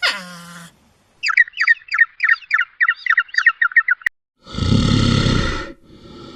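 A string of edited-together animal calls. A short cry falls steeply in pitch, then a bird chirps rapidly, about four or five notes a second for roughly three seconds. After a sudden cut, a loud, deep, rough call runs for over a second, followed by a quieter one.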